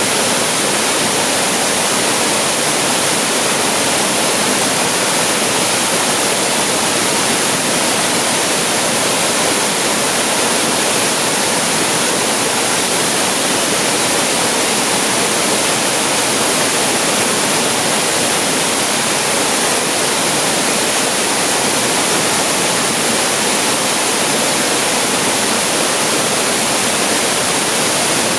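Waterfall pouring steadily, a loud, unbroken rush of falling water with no changes.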